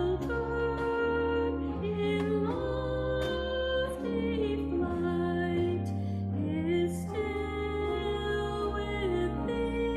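A slow, gentle Southern folk hymn tune sung by a church choir or its soprano soloist with instrumental accompaniment. The melody moves slowly with small glides, over long held bass notes that change about once a second.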